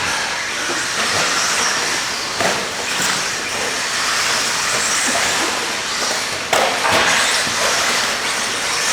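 Radio-controlled stadium trucks racing around a track: a steady high whirring hiss of motors, gears and tyres, stepping up suddenly in loudness about six and a half seconds in.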